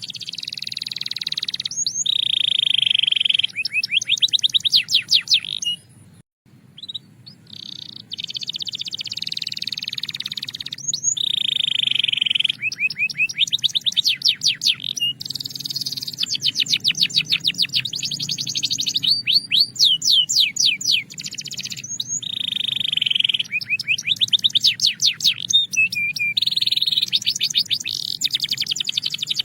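Belgian canary singing a continuous song of held trills alternating with fast runs of repeated sweeping notes, with a short break about six seconds in.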